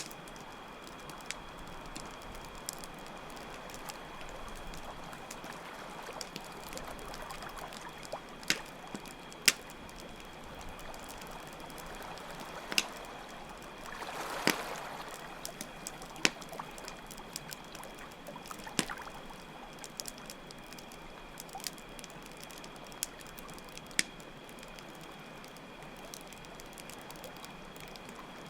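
Campfire crackling with sharp, scattered pops over steady trickling, lapping water, with crickets chirring in a steady high tone. About halfway through, the water swells briefly.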